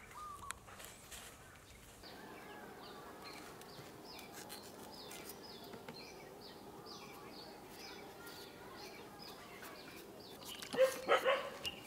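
Faint outdoor ambience with a bird giving short, high chirps over and over, about three a second. Near the end there is a brief burst of louder calls.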